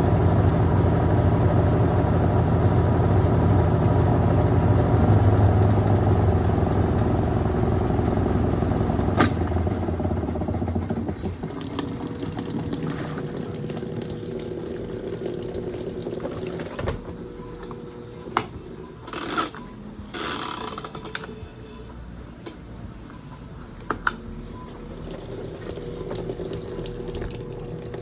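Brastemp Clean washing machine's motor running with a deep steady hum that winds down and stops about eleven seconds in. Water then runs in the machine, with a faint steady tone and a few sharp clicks and knocks.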